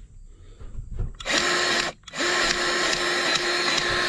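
Battery-powered grease gun running, pumping grease into a baler grease fitting that has been slow to take grease. It starts about a second in, stops briefly near two seconds, then runs on steadily.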